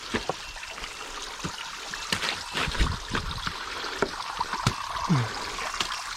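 Small waterfall splashing and trickling steadily into a creek, with scattered clicks and knocks over it.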